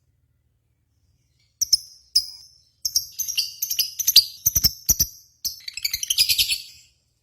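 Lovebirds chattering in rapid, high-pitched chirps and trills, starting about a second and a half in and going on in quick runs until just before the end.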